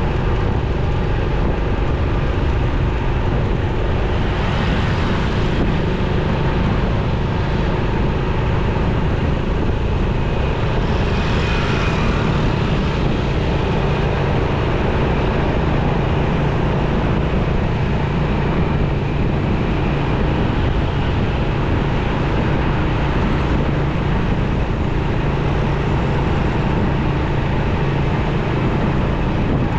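Motorcycle running steadily at riding speed through busy city traffic, its engine hum mixed with the noise of surrounding vehicles.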